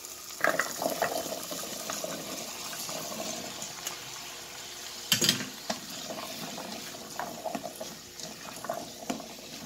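Cubed chayote tumbling from a metal colander into hot oil with sautéed onion and garlic, setting off a steady sizzle. A loud sharp knock about five seconds in, and a spatula stirring the pieces near the end.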